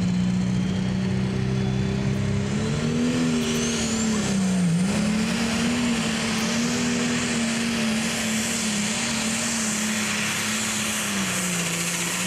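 International 1066 pro stock pulling tractor's turbocharged diesel engine running hard under load down the track. Its pitch rises about two and a half seconds in with a high whistle climbing alongside, dips briefly near five seconds, and drops near the end.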